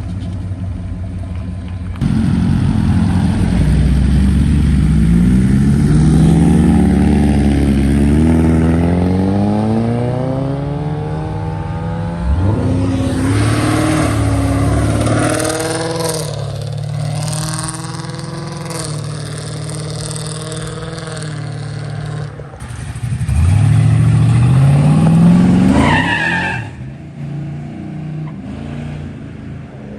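Car engines revving and accelerating hard, their pitch climbing through long pulls; a sharp rev rise near the end cuts off abruptly.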